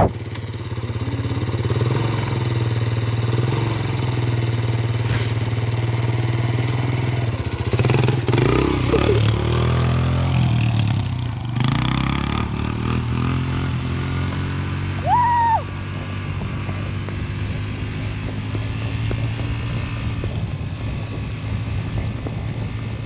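Motorcycle engine running steadily, with its pitch sweeping up and down as it revs about eight seconds in and again after eleven. A short high tone sounds briefly about two-thirds of the way through.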